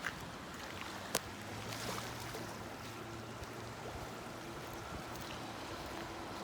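Distant train's steady low hum, with a few held tones, over a wash of water noise. A single sharp click comes about a second in.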